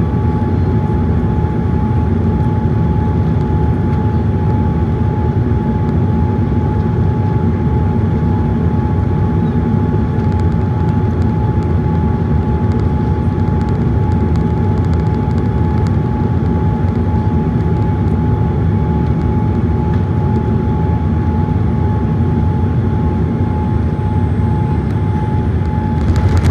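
Steady cabin noise inside a Boeing 787-8: a deep, even rumble with a thin steady whine running over it.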